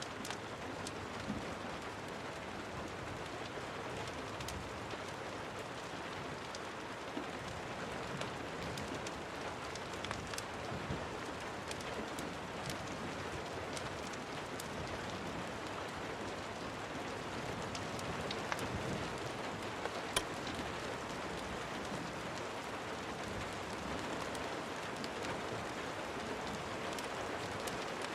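Steady rain falling, with scattered sharp clicks and pops, one louder near the end.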